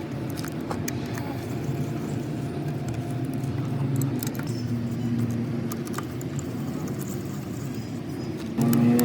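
A motor vehicle's engine running steadily, with a few light clicks over it. Near the end it suddenly gets louder, with a slightly rising tone.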